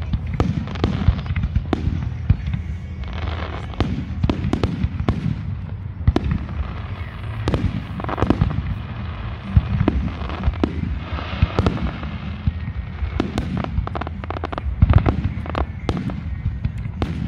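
Aerial fireworks shells launching and bursting in quick succession, a dense run of booms and bangs over a continuous low rumble, with stretches of crackling between them; the heaviest boom comes near the end.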